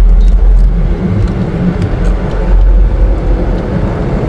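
Car driving along the road, with a steady low rumble of engine and tyres heard from inside the cabin.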